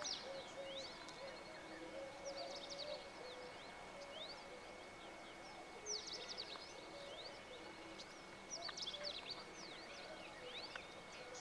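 Faint background birdsong: several small birds chirping with quick up-and-down notes and three short trilling flurries, over a steady thin high-pitched whine.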